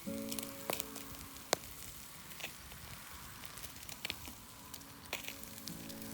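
Wood campfire crackling and sizzling: a steady hiss broken by sharp pops every so often. Soft background music of held notes plays under it, fading after the start and returning near the end.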